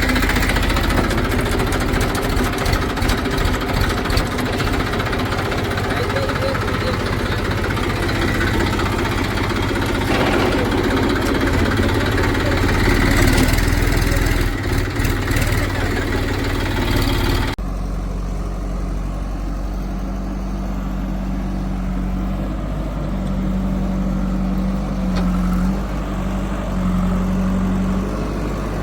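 Diesel engines of a backhoe loader and tractors running under load, with loud clattering mechanical noise. About 17 s in the sound cuts abruptly to a single diesel engine idling with a steady low hum.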